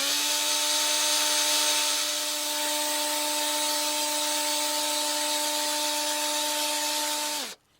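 Cordless drill on its first, low speed spinning a three-stone honing head inside an engine cylinder bore: a steady motor whine over the hiss of the stones scraping the cylinder wall. It spins up at the start and winds down with falling pitch near the end.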